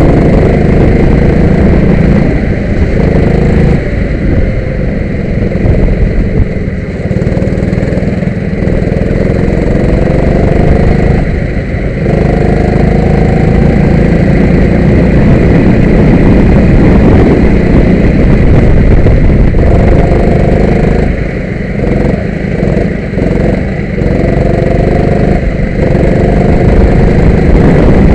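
Kart engine running loud and close. Its pitch rises again and again as it accelerates, then falls away when the throttle is lifted, with a few short lulls.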